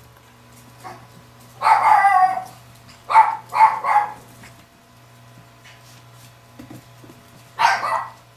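Six-week-old Chihuahua puppies barking in high yaps: a drawn-out yap about a second and a half in, three quick yips in a row around three to four seconds, and another yap near the end.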